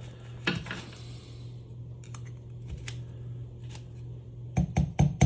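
Steel snap ring and snap-ring pliers clicking and scraping against the spooling motor's metal housing as the ring is squeezed into its groove. A quick run of sharper, louder metal clicks near the end is the ring snapping into place. A low steady hum lies underneath.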